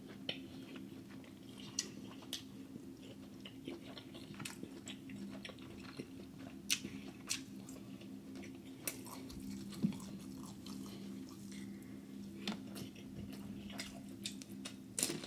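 A person chewing and biting into seafood boil close to the microphone, with scattered short wet clicks and smacks of the mouth. A faint steady hum runs underneath.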